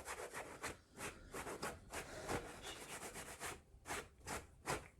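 Repeated brushing or rubbing strokes, irregular, several a second, typical of scrubbing a cap clean with a brush.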